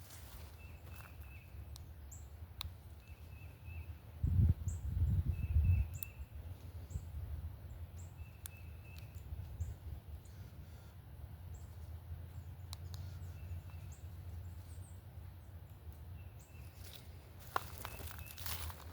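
A bird calling over and over, short notes repeating every second or two, with faint high chirps, over a low rumble that swells briefly about four to six seconds in.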